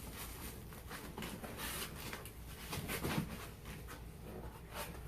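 Faint rustling and light taps of packaging and parts being handled in a box, in short irregular bursts.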